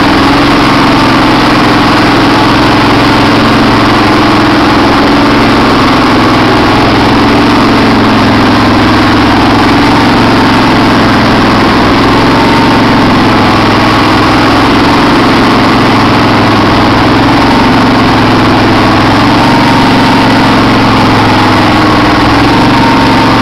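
Kohler CV18S 18.5 hp V-twin engine on a Craftsman hydrostatic lawn tractor idling steadily while it warms up after a cold start. It is recorded very loud, close to full scale.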